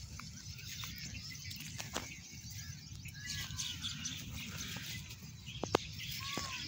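Birds calling with a few short, arching chirps, over rustling and scattered sharp clicks as plants are brushed aside while walking through a vegetable plot, with a steady low rumble underneath.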